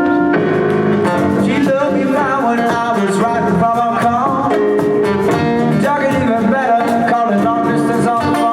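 Live band playing a song, with guitar to the fore and bending melodic notes.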